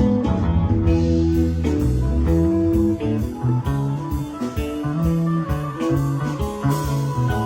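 Live band playing an instrumental passage: guitar lines over bass and drums.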